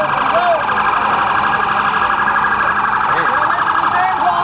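Emergency vehicle sirens: an electronic siren sounds steadily with a very fast warble, while another siren's pitch rises and falls beneath it.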